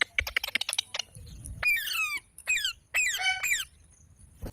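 Green parrot calling: a quick run of short clicking chirps for about a second, then several high, squeaky chirps that each fall in pitch.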